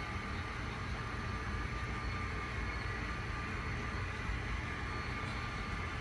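HO scale model train running on a layout: a steady hum and low rumble with faint high-pitched tones.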